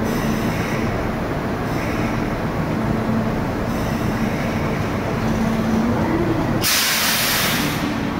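Kintetsu 21000 series Urban Liner express train pulling slowly out of the platform: a steady rumble of wheels and running gear with a faint hum. A burst of hissing air comes about six and a half seconds in and lasts just over a second.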